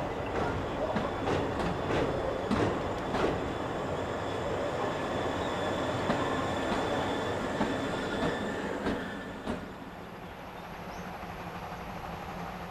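A passing train: steady running noise with wheels clattering over rail joints, dying away about ten seconds in.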